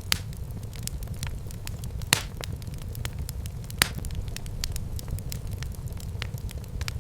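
Fireplace fire crackling over a low, steady rumble of flames, with scattered small snaps and three louder pops: right at the start, about two seconds in, and near four seconds in.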